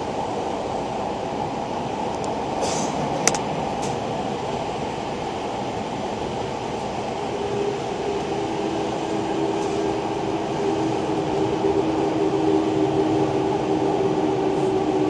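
Running noise inside a Tokyo Metro 6000 series car with Mitsubishi three-level IGBT VVVF control: a steady rumble of wheels on rail, with one sharp click about three seconds in. From about seven seconds in, a steady two-note whine from the inverter and traction motors joins, and the overall sound grows slightly louder.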